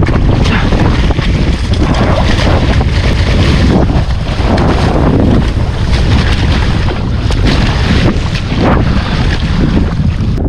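Strong wind buffeting the microphone, a dense, gusty rumble, with sea-water noise beneath it.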